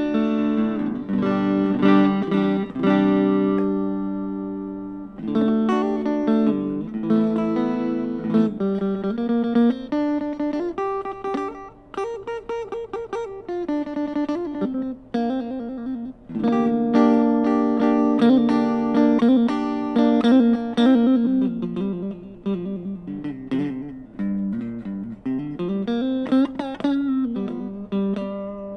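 Fusion Stratocaster-style electric guitar with ceramic pickups, played as a sound demo: chords and single-note lines, some notes gliding up and down in pitch.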